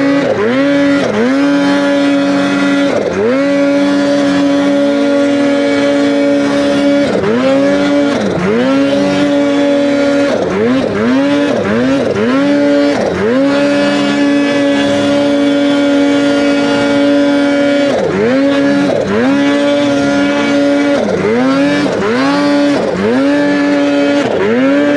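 Polaris Khaos Boost turbocharged two-stroke snowmobile engine at high revs, held at a steady high pitch and then chopped and reapplied again and again, each time dropping and climbing back up, with quick bursts of blips in clusters, as the sled is ridden hard through steep, deep snow.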